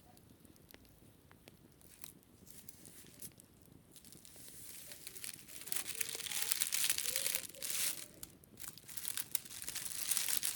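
Wicker basket being scratched and scrubbed, a dry rustling crackle that starts faint and becomes loud about five seconds in, with a short break near eight and a half seconds.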